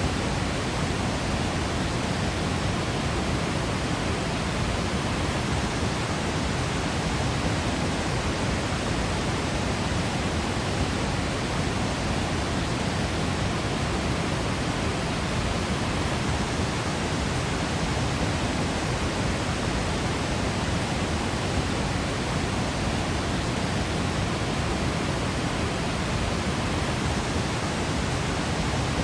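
Waterfall in Yosemite, a steady, even rush of falling water with no change in level.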